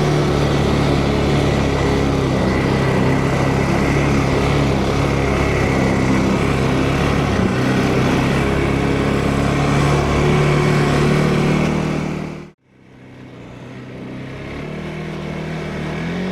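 ATV engine running steadily while riding along a trail. Near the end the sound drops out abruptly for an instant, then the engine fades back in and rises slightly in pitch.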